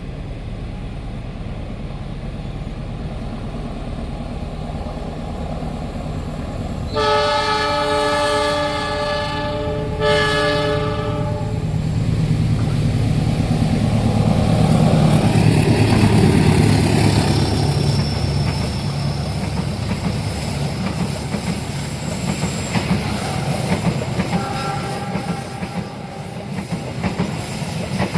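A train approaching with a rising rumble. It sounds two long horn blasts, one about seven seconds in and a shorter one about ten seconds in. It then passes close by, loudest a few seconds later, its cars rumbling and wheels clattering over the rails.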